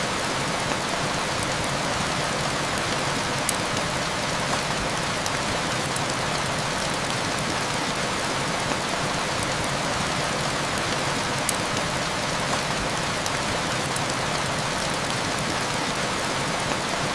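Steady heavy rain falling in an even hiss, with a few sharp ticks scattered through it.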